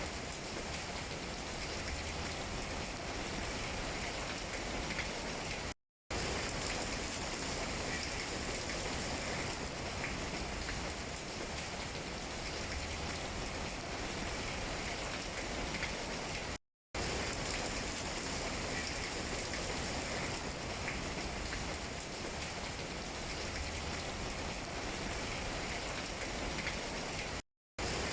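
Steady rain falling on tree leaves: an even patter with small individual drops tapping through it. The sound cuts out to silence for a split second three times, about every eleven seconds.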